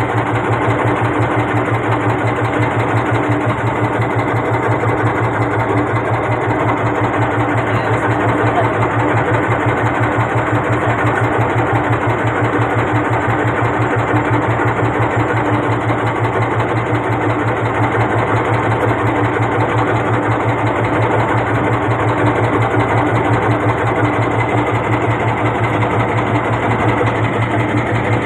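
Small boat engine running steadily at an even speed, with a fast, regular beat.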